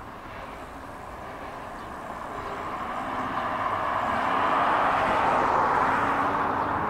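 Freight train tank cars rolling past on a bridge: a steady rushing noise of wheels on rail that grows louder over the first few seconds and then holds.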